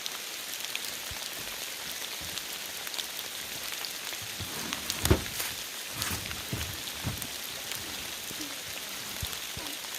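Heavy rain falling steadily, with a few dull knocks in the middle, the loudest about five seconds in.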